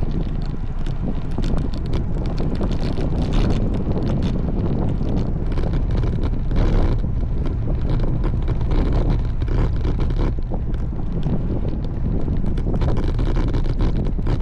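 Steady wind buffeting the camera microphone on a moving road bike, a loud low rumble with gusty flutters throughout.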